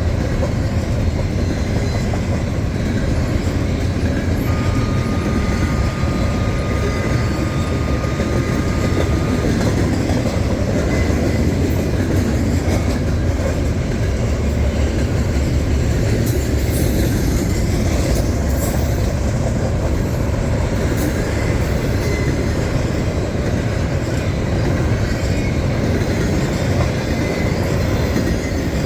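Train rolling past on the rails, a steady loud rumble of wheels and cars, with a thin high squeal held for about five seconds a few seconds in.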